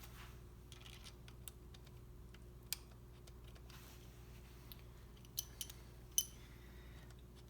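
Scattered light clicks and taps of metal engine parts and tools being handled during piston installation, a few sharper ones about three, five and six seconds in, over a low steady hum.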